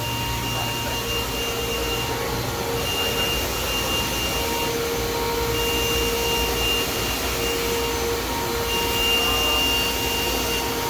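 Steady machinery hum and whir around a powered-up DMG Mori DMC 1035V vertical machining center, with a thin high whine and a lower tone that cut in and out every second or two.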